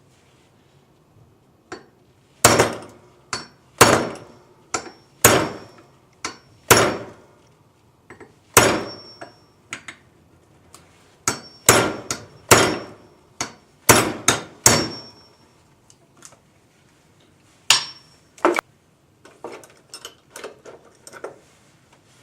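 Hammer striking a pin punch to drive the roll pin out of an HEI distributor's shaft and drive gear: a series of sharp metallic blows with a brief ring, struck in uneven groups. A few lighter taps and clinks follow near the end.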